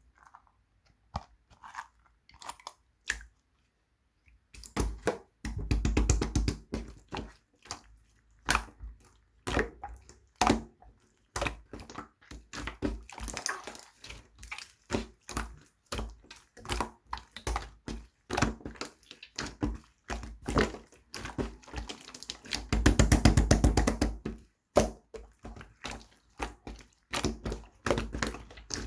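Slime being pressed and squished by hand, giving quick runs of sticky clicks and crackling pops. Two longer, louder stretches of dense crackling come about six seconds in and again a little over twenty seconds in.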